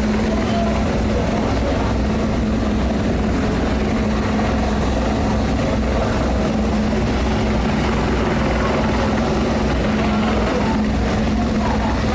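Helicopter hovering close by, its rotor and turbine making a loud, steady beating drone with a low hum.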